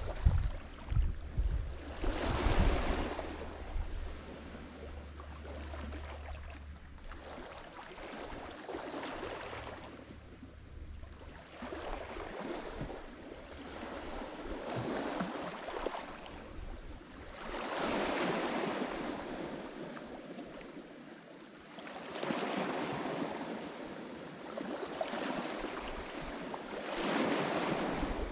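Lake Michigan waves breaking on the shore, each one swelling up and washing away every four to five seconds. Wind rumbles on the microphone for the first few seconds.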